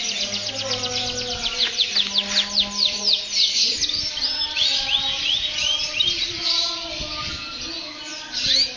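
A songbird singing: a fast run of high, quickly falling whistled notes, then a slower series of short hooked notes about halfway through.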